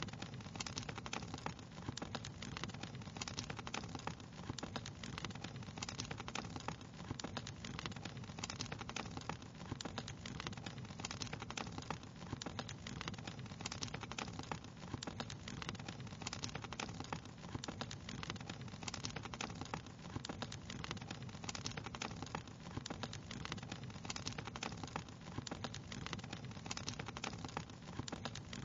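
Fireplace fire crackling steadily: many small irregular snaps and pops over a low, even rumble.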